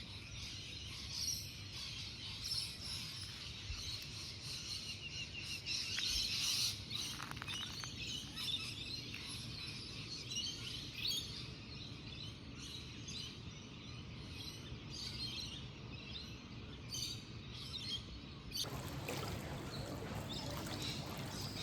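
Many small birds chirping and calling over a steady low background hiss; the background changes abruptly a few seconds before the end.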